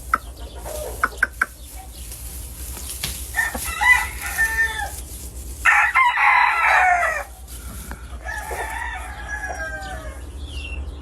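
Gamefowl roosters crowing: three long crows in turn, the middle one the loudest, after a few sharp clicks in the first second or so.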